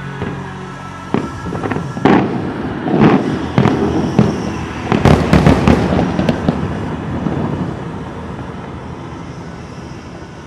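Aerial fireworks shells bursting: a run of sharp bangs that thickens into a dense cluster about five seconds in, each bang trailing off in a rumbling echo that slowly dies away.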